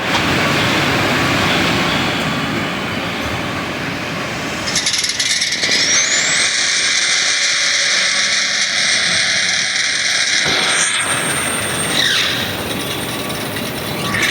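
Drag racing car engines running loud and continuously. About five seconds in, a high whine rises in pitch and holds, then drops away around ten seconds in.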